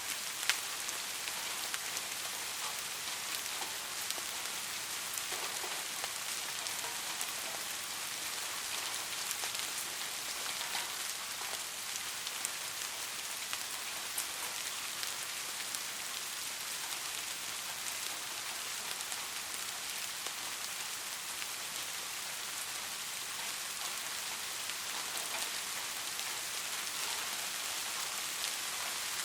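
Steady rainfall: an even hiss of rain with many small drops ticking on a surface, and one sharper drop about half a second in.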